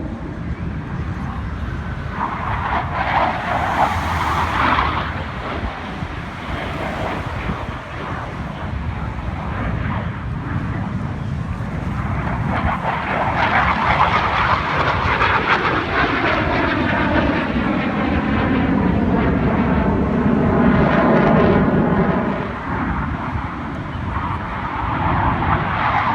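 Aircraft engines running as planes fly past overhead, a broad roar that swells and fades several times.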